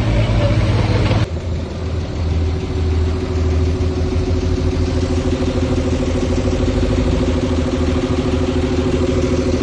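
Diesel engine of heavy earthmoving machinery, a dump truck or bulldozer, running steadily. About a second in the sound changes abruptly to a different steady engine note, which holds.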